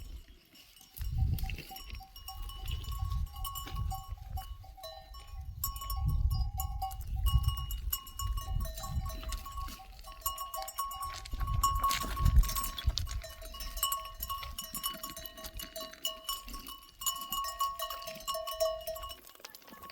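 Bells on a grazing flock of sheep and goats ringing steadily as the animals move, over uneven low rumbling.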